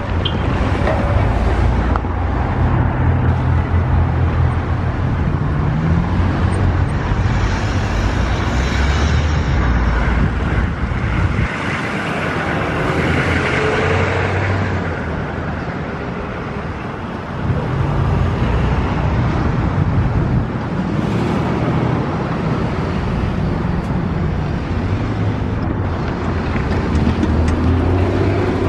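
Train passing close by: a loud, steady rumble that sags briefly about halfway through.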